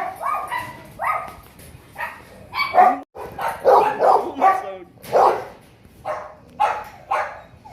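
Puppies yapping: a string of short, high barks, one or two a second.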